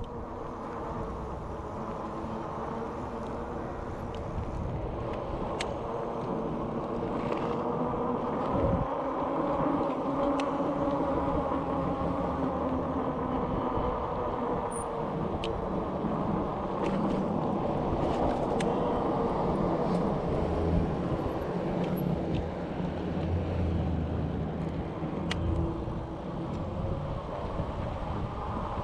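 Steady rolling noise of a bicycle ride on a road, tyres and wind on the camera, with a few faint clicks now and then.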